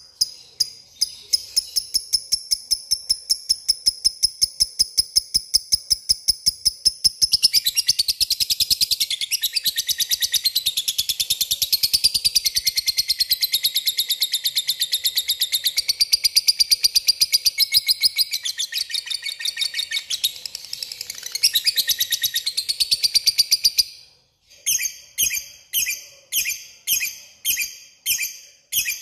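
Lovebird 'ngekek' chatter: a fast run of high, repeated chirps that thickens about seven seconds in into a long, unbroken rattling trill. The trill stops abruptly about 24 seconds in, and separate chirps follow about twice a second.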